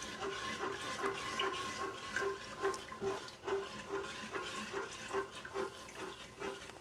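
A spoon stirring a thin sugar-and-water chili sauce in a pot, with a sloshing, scraping stroke about two and a half times a second.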